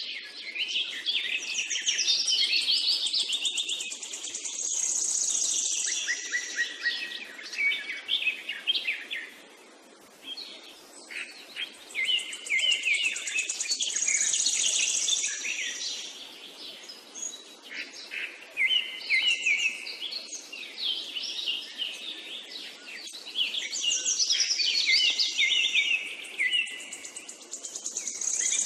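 Birdsong: many quick chirps and trills, coming in long bursts that repeat about every eleven seconds.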